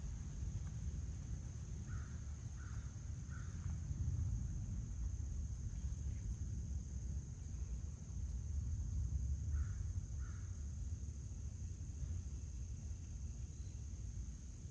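Steady high-pitched insect drone, typical of crickets, over a low outdoor rumble, with a bird calling in short calls: three about two seconds in and two more a little after ten seconds.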